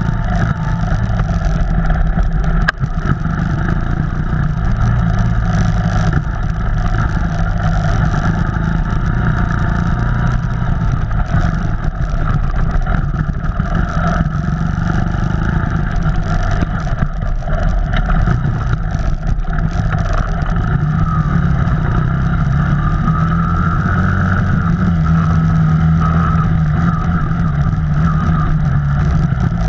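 Off-road vehicle engine running continuously under load on a trail, its pitch rising and falling a little, with frequent short knocks and jolts over it.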